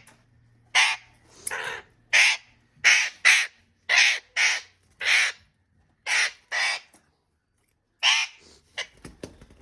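Ringneck parrot squawking, a string of about eleven short, harsh screeches while it is held for wing-feather trimming: the protest of a parrot being restrained and handled.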